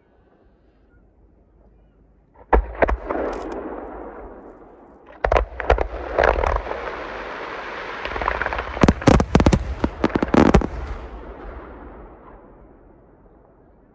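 Aerial fireworks bursting: a few sharp bangs about two and a half seconds in, another group around five seconds, then a rapid cluster of bangs between about nine and ten and a half seconds. Each group is followed by a rush of noise that fades away.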